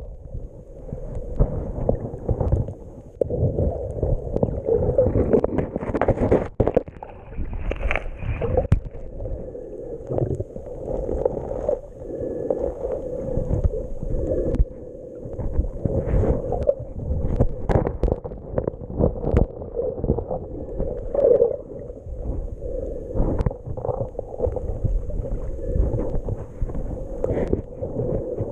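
Jet ski running on the water: a steady engine drone, uneven in loudness, mixed with water splashing and wind on the microphone.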